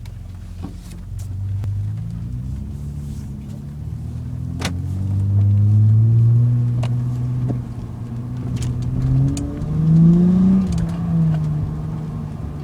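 Car engine running through an aftermarket RV6 exhaust, its deep note rising and falling as the car accelerates and eases off, loudest about halfway through and again near ten seconds in.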